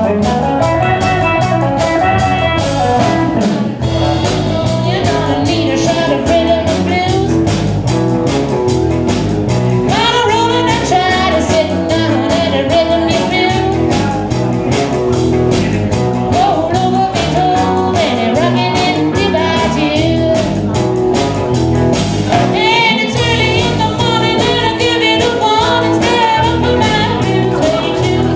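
Live band playing a blues-rock number, with guitar, a steady drum beat and singing.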